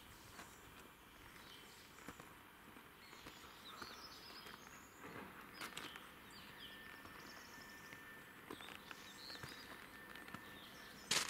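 Quiet outdoor ambience with small birds chirping now and then in short rising and falling notes, and a few faint knocks.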